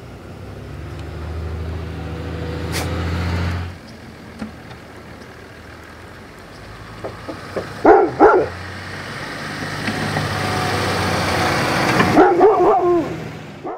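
A large wolf-dog barks twice, sharply, about eight seconds in, and gives a short run of higher, wavering barks near the end. Between the barks, a motor vehicle's engine hum swells and fades as vehicles pass.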